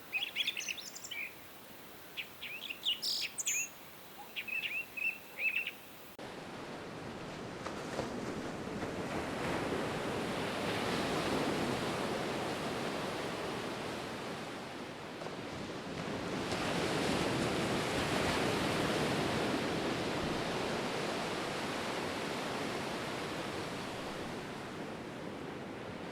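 Small birds chirping in quick short notes for about the first six seconds; then the sound switches abruptly to sea surf, a steady wash of waves that swells up twice and eases back.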